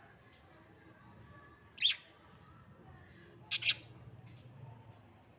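Budgerigars giving short, sharp chirps: one about two seconds in and a quick double call a little later.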